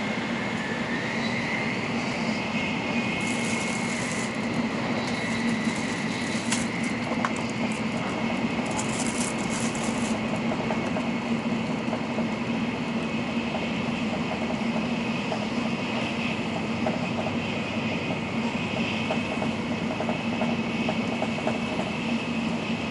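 N700-series Shinkansen running, heard from inside the passenger cabin: a continuous rush of running noise with a steady low hum and a faint whine. Brief hissing bursts come twice in the first ten seconds.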